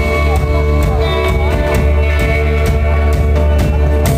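Rock band playing an instrumental passage between sung lines: electric guitar, bass and drum kit with a steady beat.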